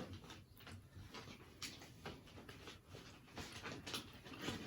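Close-miked eating sounds: biting and chewing a chicken wing, with irregular soft crunches and mouth clicks.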